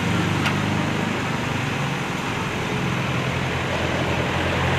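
Truck crane's engine running steadily, with one sharp click about half a second in.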